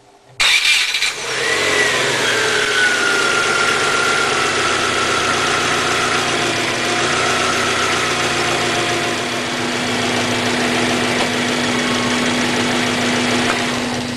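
1996 Subaru Legacy's EJ20 2-litre flat-four engine running loud and steady, coming in abruptly about half a second in. A whine over it falls in pitch over the first few seconds, and a steady low hum runs under it.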